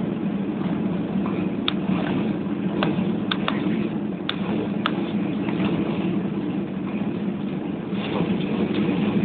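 Steady Airbus A320 cabin noise after landing: a constant low hum from the engines and cabin ventilation, with a few sharp clicks in the first half.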